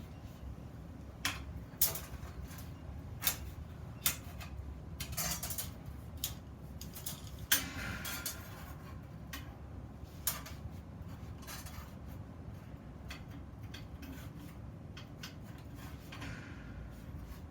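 Small pieces of iron being handled at the workbench: a dozen or so separate metal clinks and knocks, with a few short scrapes as parts slide against each other, over a low steady hum.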